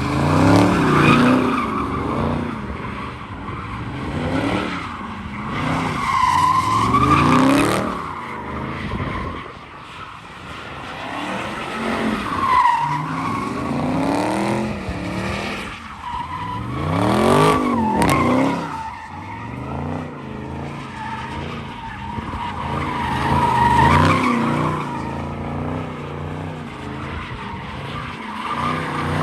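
Car engines revving up and down hard while tires squeal in burnouts, the noise swelling and easing every few seconds.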